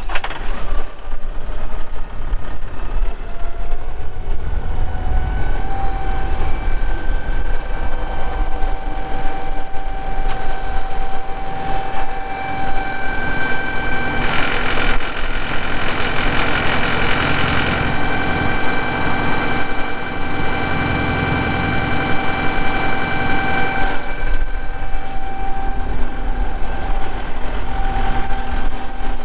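Kubota M4-071 tractor's diesel engine idling steadily just after a start, with a steady whine over the rumble. A louder hiss rises for a few seconds about midway.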